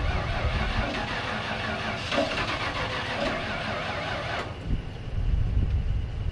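Starter motor cranking the Ford F150's 302 V8 without it catching, then stopping about four and a half seconds in. The battery is nearly flat.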